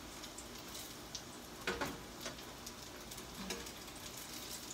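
Faint steady sizzle of meatballs frying in a pan, with a few light clicks and taps as they are moved into the pot of tomato sauce.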